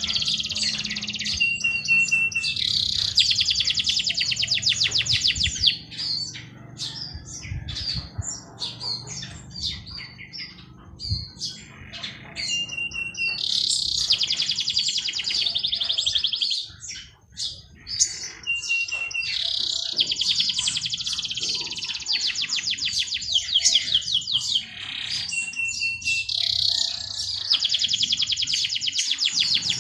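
Songbird singing: repeated long, fast trills, several seconds each, most of them begun by a short high steady whistle. Other birds chirp in between, with a quieter stretch of scattered chirps in the middle.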